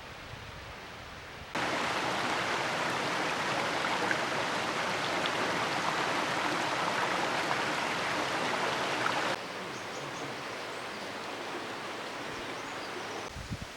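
Steady rushing of a mountain stream and waterfall. The rush jumps suddenly louder about one and a half seconds in, then drops back to a quieter level about two-thirds of the way through.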